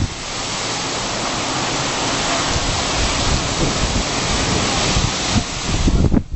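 Storm rain and wind: a steady, even hiss of rain, with gusts buffeting the microphone near the end.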